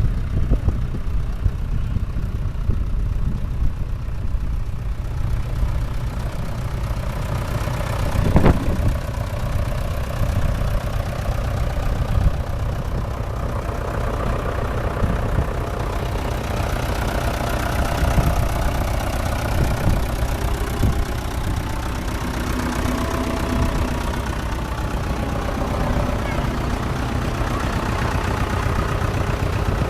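Engine idling steadily, with a single sharp knock about eight and a half seconds in.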